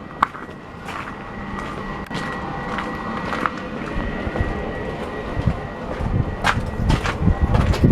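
Strong gusting wind buffeting the microphone with a low rumble, growing louder near the end.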